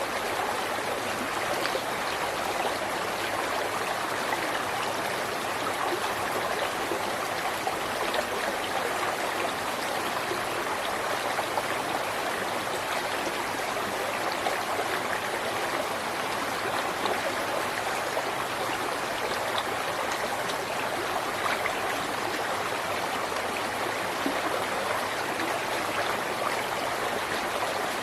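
A river or stream flowing over rocks, a steady rushing and babbling of water with no change in level.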